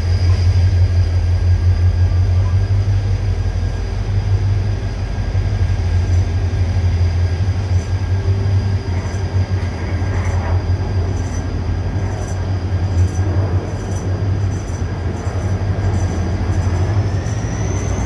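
Mugunghwa-ho passenger train rolling slowly past along the platform: a steady low drone with a thin whine above it, and regular clicks about twice a second from the wheels through the middle. Near the end the whine rises in pitch.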